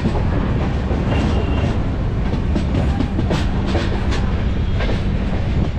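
Passenger train running, heard from an open coach door: a steady rumble of wheels on the track with irregular clicks and clacks.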